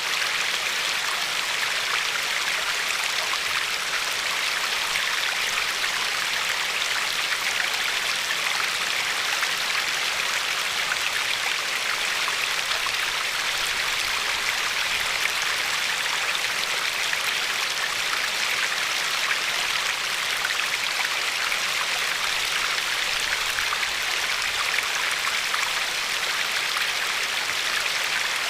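River water running steadily over a pebbly shore: an even, unbroken rush with a fine patter in it.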